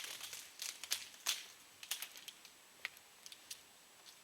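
Fireworks package being handled: light rustling of packaging and small clicks and taps, thinning out after about two seconds.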